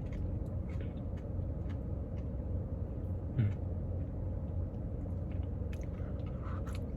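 Steady low rumble of a car interior, the engine idling, with faint scattered clicks and small mouth sounds of someone eating a Blizzard with a spoon.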